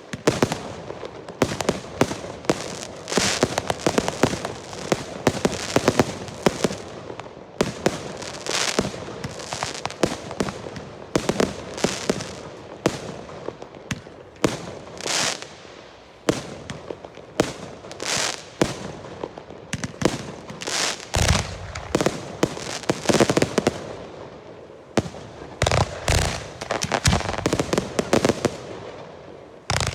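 Girândolas, Portuguese batteries of foguetes (stick rockets), firing in dense, rapid succession: an unbroken string of sharp cracks and bangs. A few deeper booms stand out in the second half.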